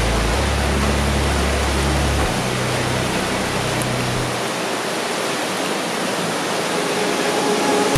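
Steady rain falling: a dense, even hiss.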